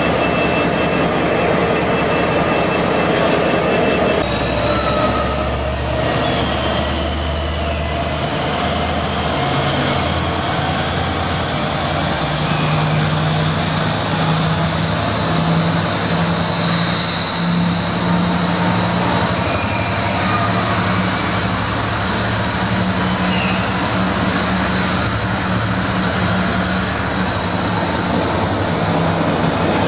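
Renfe passenger train with Talgo-type coaches running past along a station platform. It makes a steady low hum and a high whine that rises slowly in pitch, with some wheel squeal. The sound changes abruptly about four seconds in, where a second train takes over.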